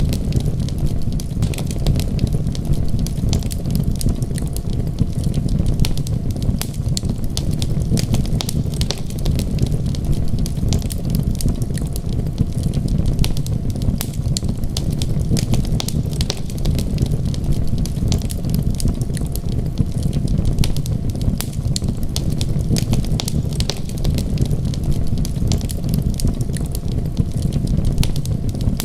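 Wood fire crackling: many small pops and snaps scattered over a steady low rumble.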